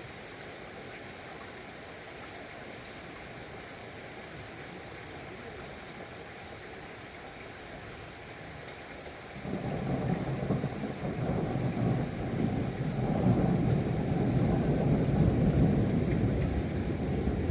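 Steady rain, then about halfway through a long rumble of thunder sets in and rolls on, loudest a few seconds before the end.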